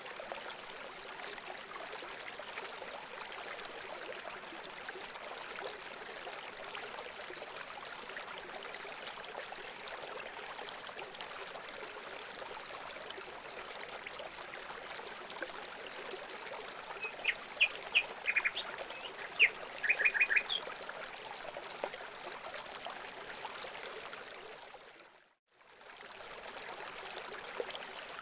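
Steady trickling of running water, with a quick series of short, sharp bird chirps a little past the middle. Near the end the sound fades out for a moment and comes back.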